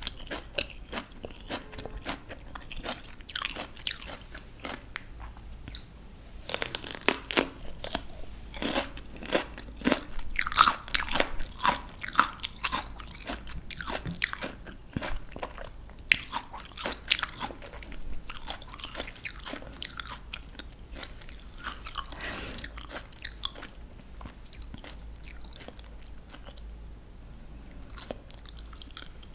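Close-up crunching and chewing of crisp raw vegetables: repeated sharp bites and crunches, densest in the middle, tapering to quieter chewing near the end.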